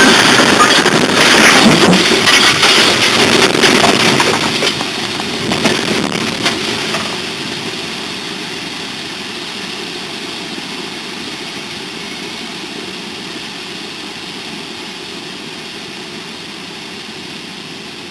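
A train's head-on collision: loud clattering and banging with many sharp knocks, dying away over about seven seconds into a steady low noise.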